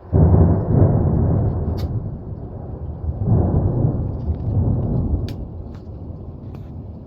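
Thunder: a sudden close crack opening into a loud, low rolling rumble, which swells again about three seconds in and then fades away.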